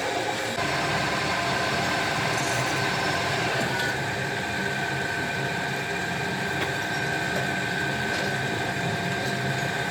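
A workshop machine running steadily, with a constant high whine over an even mechanical noise.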